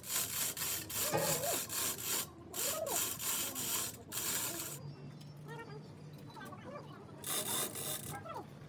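Rough rubbing or scraping strokes on a hard surface during engine repair work, in several long bursts through the first four seconds and once more near the end.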